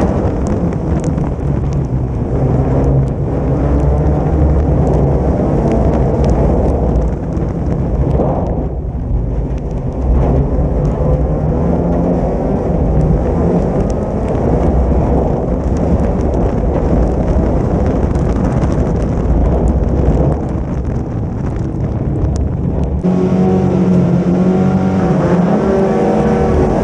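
Folk-racing car's engine running hard, heard from an onboard camera under heavy wind and road rumble. About 23 seconds in the rumble drops away and the engine note comes through clearly, rising and falling in revs as the car slows.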